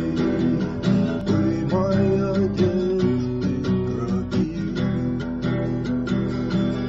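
Music: a song with acoustic guitar strummed in a steady rhythm.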